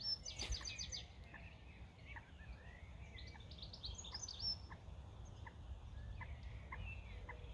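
Small birds singing: quick high trills in the first second and again around three to four seconds in, then short chirps repeated about twice a second, over a low steady rumble.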